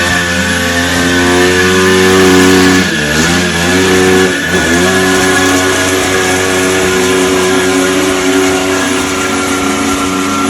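Motorcycle engine held at high revs, its pitch dropping and climbing back twice, about three and four and a half seconds in.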